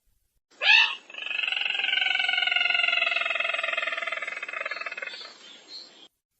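Recorded call of the sintar merah bird, played as a trapping lure. A short rising note is followed by one long trilled call that slowly falls in pitch and fades out over about five seconds.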